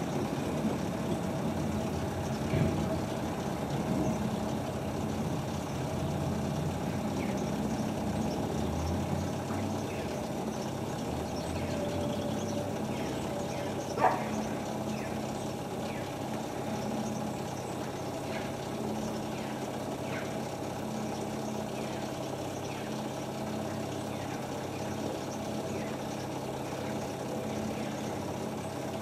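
Hotpoint Ultima WT960 washing machine running on its new drive belt: a steady motor hum, with one sharp click about halfway through.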